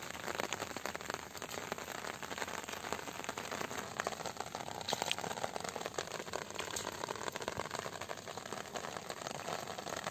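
Steady rain falling on shallow water and wet ground, a dense crackle of drops.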